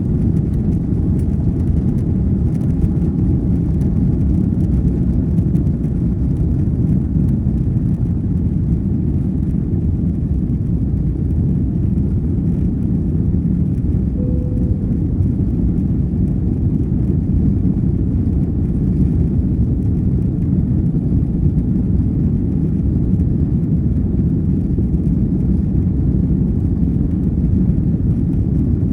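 Steady low rumble of an Airbus A330-200 heard from inside the passenger cabin, engine and airflow noise running evenly.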